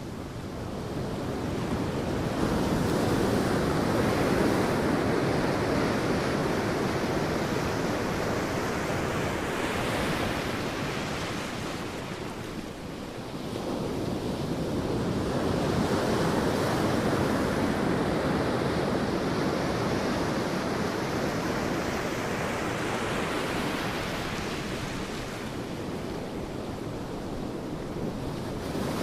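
Sea waves breaking on a beach: continuous surf noise that swells and ebbs in slow surges several seconds apart.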